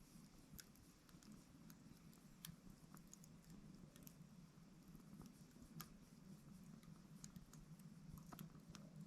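Faint crackling of a small wood fire burning in a titanium hexagon wood stove: irregular sharp pops and ticks.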